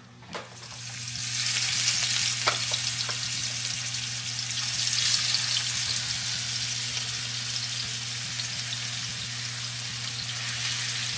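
Chopped, seasoned chicken thighs frying in hot olive oil in a pan. The sizzle swells over the first second or two, then holds steady, with a few light clicks and a low steady hum underneath.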